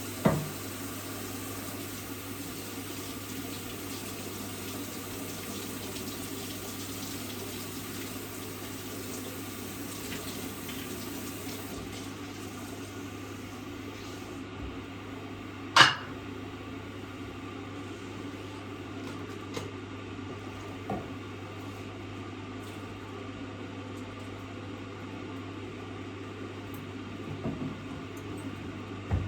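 Water running steadily over a constant low hum, with a sharp click just after the start and a louder one about 16 seconds in, and a few fainter knocks after that.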